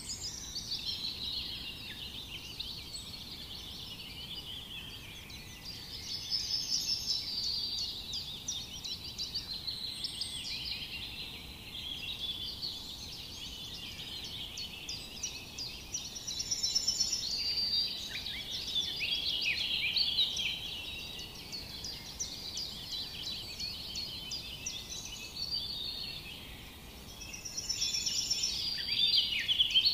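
A dense chorus of many birds chirping and trilling without a break, swelling louder a few times.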